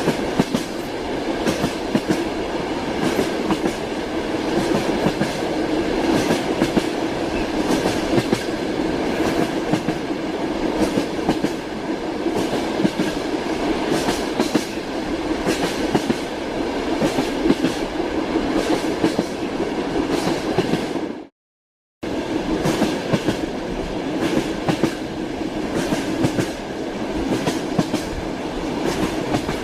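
A moving train: wheels clacking on the rails over a steady running rumble. About two-thirds of the way through, the sound cuts out completely for about half a second, then resumes unchanged.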